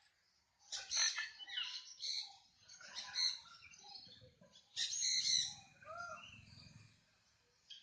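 Parrots squawking and chattering in several loud bursts a second or two apart, fading after the last burst.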